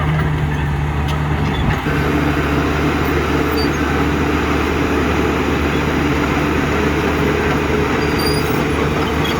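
Heavy diesel engine of earthmoving machinery running steadily under load, with a brief dip and change in its note about two seconds in.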